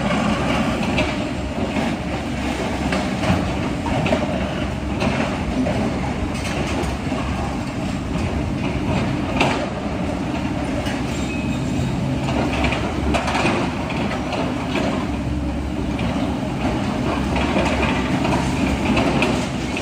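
Heavy excavator at work: its diesel engine runs steadily under load, with frequent metallic clanks and knocks scattered through.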